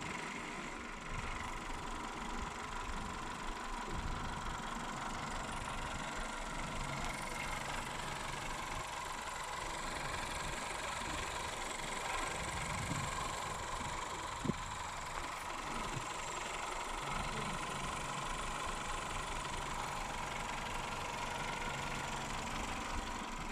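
Toyota Corolla's 3ZZ-FE 1.6-litre four-cylinder petrol engine idling steadily, with a thin steady whine. A single sharp click comes about fourteen seconds in. The engine is freshly serviced, and the owner finds it running properly.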